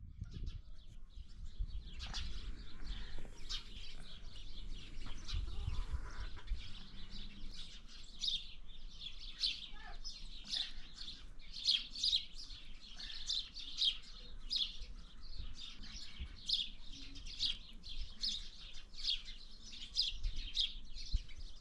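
Small birds chirping in quick, repeated short notes, sparse at first and busy through the second half, over a low rumble in the first few seconds.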